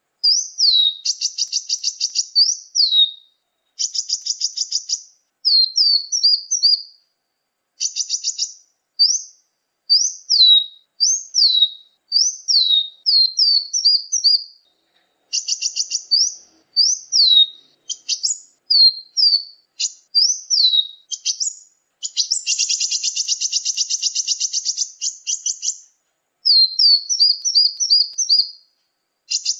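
Small songbird calls from a bird-lure recording: a quick series of high, sharply falling whistled chips, broken by dry buzzing rattles. The rattles come about a second in, near 4 s, at 8 s and 15 s, and in a longer stretch from about 22 to 26 s. The gaps between calls are completely silent, with no background.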